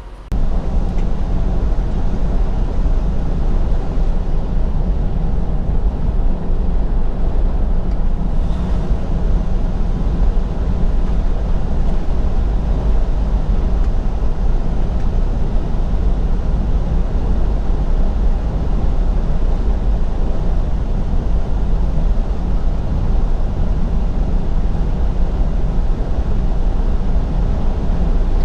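Semi truck driving at speed: steady engine, road and wind noise, starting abruptly just after the start.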